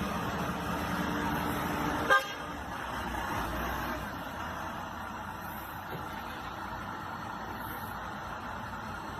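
Truck running on a muddy track, with one short horn toot about two seconds in; after the toot the sound is quieter.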